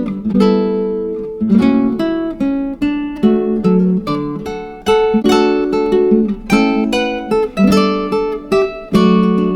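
Background music of an acoustic guitar playing plucked and strummed chords at an even pace.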